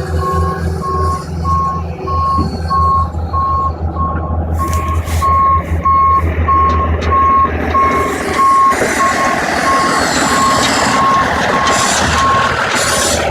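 Vehicle reversing alarm beeping steadily at just under two beeps a second over the low running hum of a heavy engine. A louder hissing noise builds up from about halfway in, and the beeps stop near the end.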